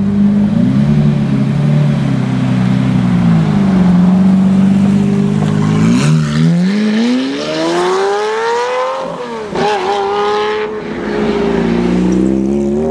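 Lamborghini Murciélago LP670-4 SV's V12 through an aftermarket Reiter exhaust. For about six seconds it runs low at rolling speed, its note wavering up and down. Then it revs hard, the pitch climbing steeply for about three seconds, drops sharply, and runs on more steadily before fading near the end.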